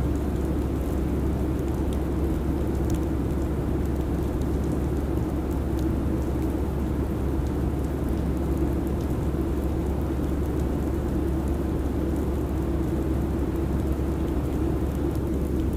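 Steady airliner cabin noise in cruise: an even low rumble and airflow hiss that does not change, with faint scattered ticks.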